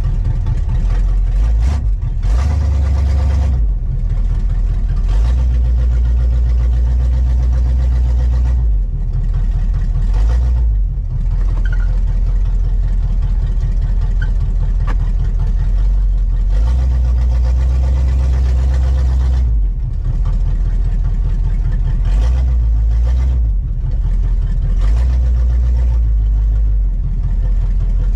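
1971 Chevelle wagon's engine idling, warmed up and running smoothly, with a deep low rumble that swells and drops several times.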